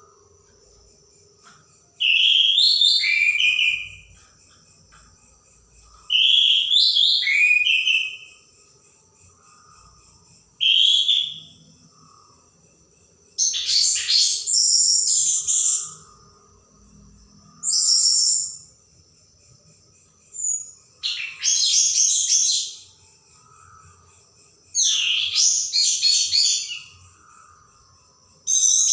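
Orange-headed thrush singing in short, loud phrases with pauses of about two seconds between them, some eight phrases in all; a faint steady high tone runs underneath.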